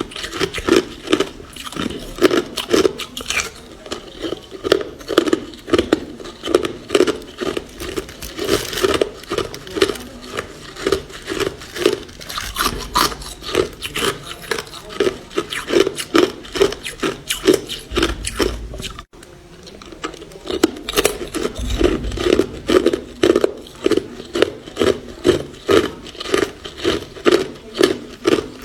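Ice being chewed close to the microphone: a fast, steady run of crisp crunches, about two to three bites a second. There is a brief break about two-thirds of the way through, then the crunching picks up again.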